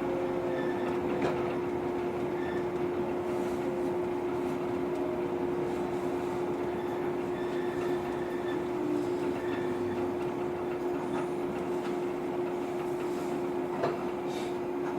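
Inside a JR 115-series electric train standing at a station: a steady hum from the car's onboard equipment, with one short click near the end.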